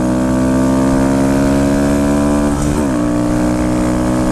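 Motorcycle engine running under steady throttle, its pitch climbing slowly, then dropping sharply about two and a half seconds in as the rider shifts up a gear, and holding steady after the shift.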